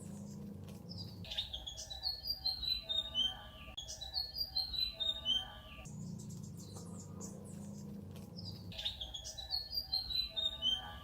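Birdsong: repeated phrases of quick descending chirps, with higher twittering between them, over a low steady rush that comes and goes.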